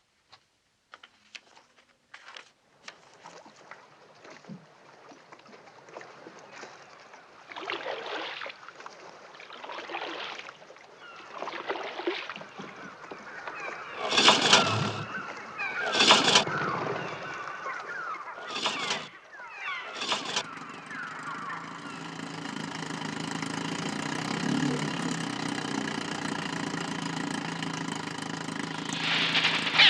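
Film sound: harsh bird cries rising and falling, loudest about halfway through, then, from about two-thirds of the way in, a small motor running steadily.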